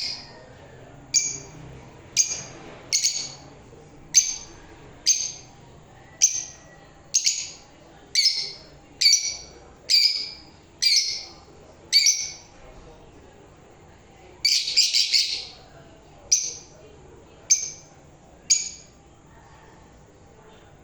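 Pet lovebird giving repeated high-pitched chirps about once a second, with a quick run of several calls about two-thirds of the way through. The calls stop a couple of seconds before the end.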